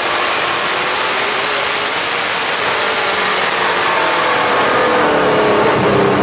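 Super late model race car's V8 engine under race load, heard from inside the car over heavy wind and road noise. The engine note dips partway through and climbs again near the end.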